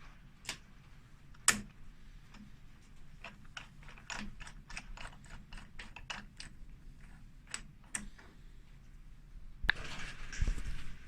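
Sharp mechanical clicks and taps, with a quick run of them at about three to four a second through the middle, then a louder clunk and a rattle near the end.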